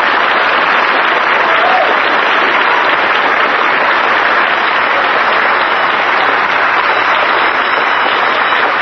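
Studio audience applauding steadily after a song ends, heard through an old, band-limited radio recording.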